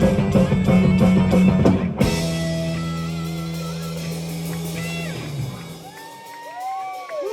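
Live metal band playing, with drums and distorted guitars; about two seconds in the drums cut off and a held chord rings on. Near the end, guitar notes slide up and down in pitch over a low sustained note.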